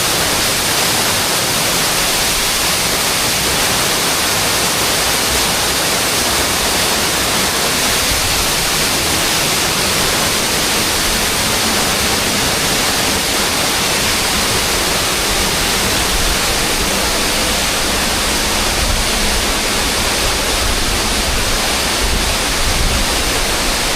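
Loud, steady rush of water falling in a waterfall, with a deeper low rumble building in the second half.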